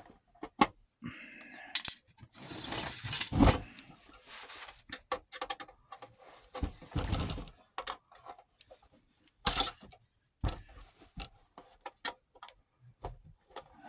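Irregular metal clicks, clinks and short scrapes of a screwdriver working at stubborn flathead screws and of small parts of an 8mm film viewer being handled.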